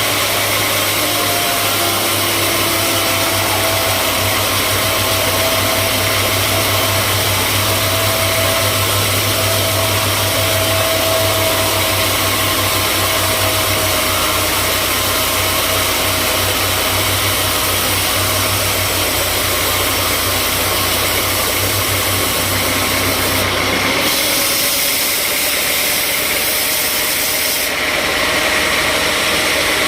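Sawmill machinery running steadily: a loud engine-driven saw with an even low hum. About three-quarters of the way through, the low hum drops away and a harsher, higher hiss takes over.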